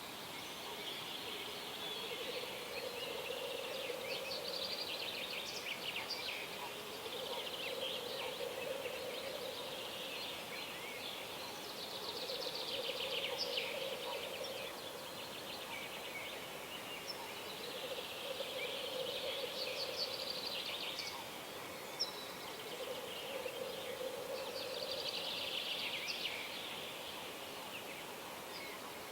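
Several wild birds singing at dawn: repeated song phrases overlapping one another, with a lower call that comes back every few seconds.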